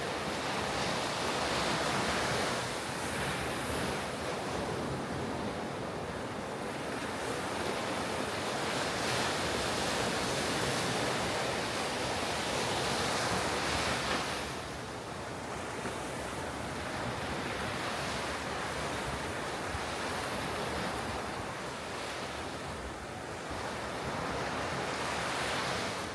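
Ocean surf breaking and washing up a beach: a continuous wash that swells and eases, falling back noticeably about halfway through.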